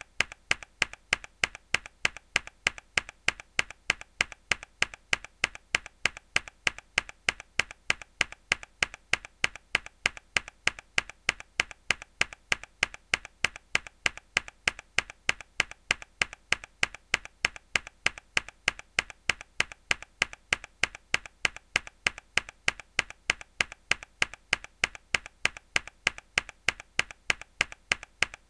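A single hard key press on a mechanical keyboard, repeated in a loop as a sharp click at an even pace of about two to three a second, with a fainter click between the main strikes.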